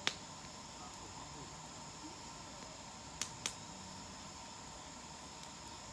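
Wood campfire crackling, with three sharp pops: one at the start and two in quick succession about three seconds in. Insects chirr steadily underneath.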